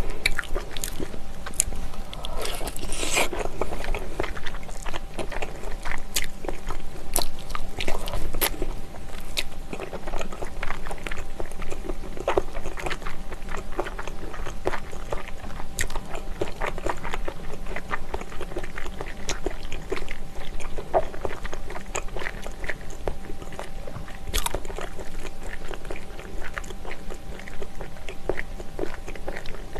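Close-miked eating sounds of gnawing and chewing braised ox knee meat off the bone: wet mouth smacks and irregular soft clicks, several a second.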